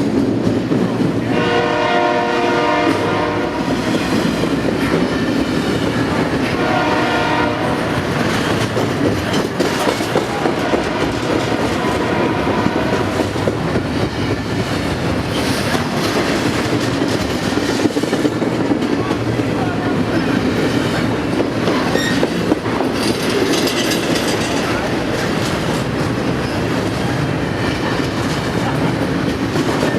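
A train rolls past close by, its wheels clattering over the rail joints in a steady loud din. The locomotive's air horn sounds twice in the first eight seconds, a chord of several tones each time.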